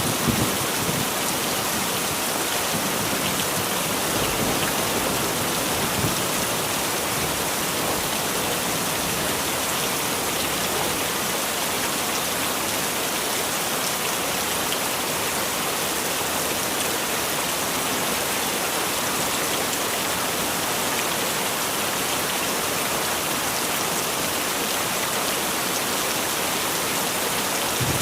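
Heavy rain falling steadily, an even, unbroken hiss of drops striking surfaces.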